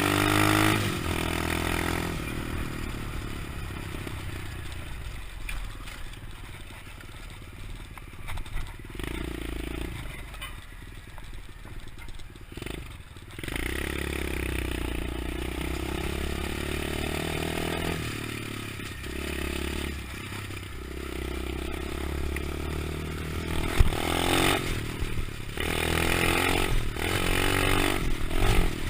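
125cc pit bike engine running while being ridden, revving up and easing off, louder near the start and again near the end, with one sharp knock a few seconds before the end.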